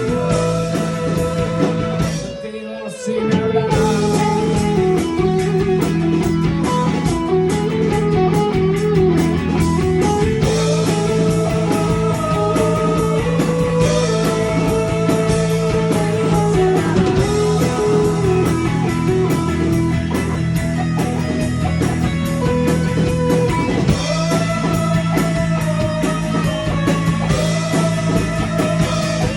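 Rock band rehearsing: a Gibson Les Paul Standard electric guitar playing a sustained melodic line over bass and drums, with a short break about two to three seconds in before the band comes back in.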